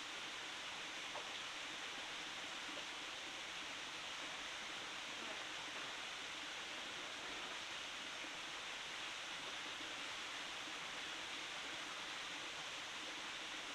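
Steady rush of a flowing forest stream, with a couple of faint small clicks.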